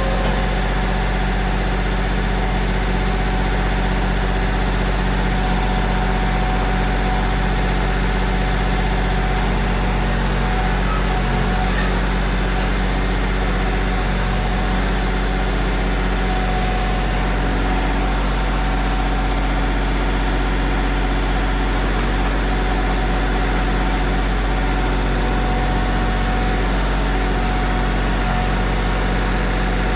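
Steady, unchanging machine hum with a strong low drone and several steady tones, like a motor or engine running at idle.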